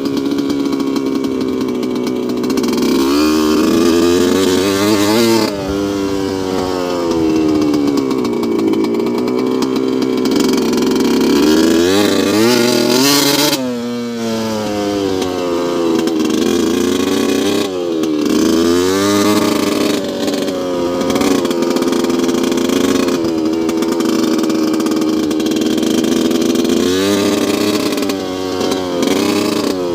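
2002 Yamaha YZ125's 125 cc two-stroke single-cylinder engine running at a steady speed, revved up and back down in pitch about seven times, with quick rises and falls near 3, 6, 13, 15, 18, 20 and 28 seconds in.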